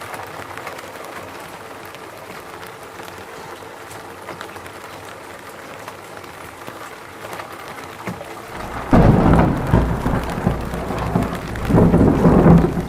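Steady rain falling in a forest, then about nine seconds in a loud rumble of thunder breaks in and swells a second time near the end.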